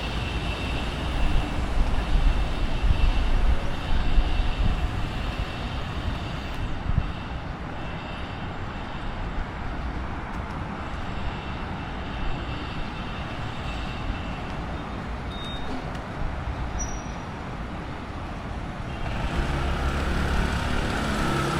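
Road traffic noise: a steady low rumble of vehicle engines and tyres, louder in the first few seconds and again near the end.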